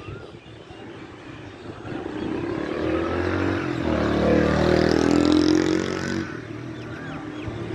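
A motor vehicle driving past: its engine grows louder over a couple of seconds, is loudest in the middle and fades away. Faint bird chirps follow near the end.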